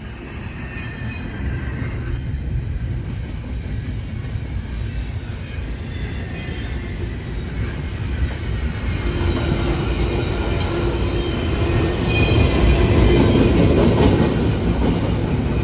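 Train rumbling past on the tracks, growing steadily louder as it draws near.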